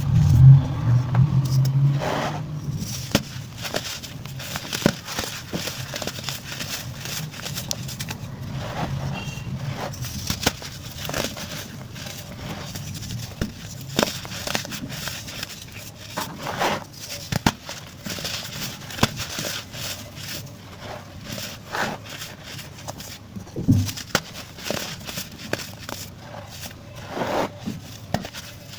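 Pressed white baking soda being crumbled and crushed, giving a dense run of irregular crunches and crackles. A low hum sounds in the first two seconds.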